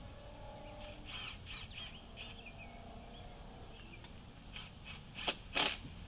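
Small birds chirping now and then, then two sharp snaps in quick succession near the end.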